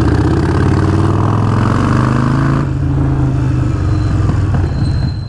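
Harley-Davidson Forty-Eight's air-cooled V-twin running under way through Vance & Hines Shortshots exhaust, loud and steady; its pitch climbs a little, then drops back about two and a half seconds in, as in a gear change.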